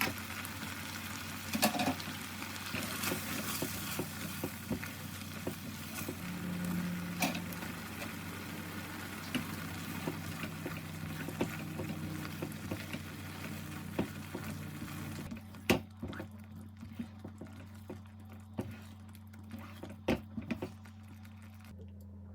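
Food sizzling and bubbling in a pan on the stove, with scattered clinks of a utensil. The sizzle stops about two-thirds of the way through, leaving a low steady hum and a few clicks.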